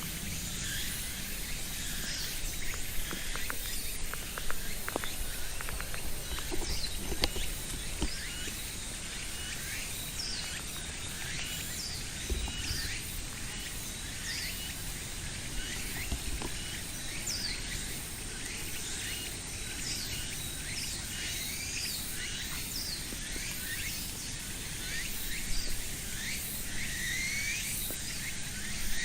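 Outdoor ambience of many small birds chirping in short, overlapping high calls over a low steady rumble.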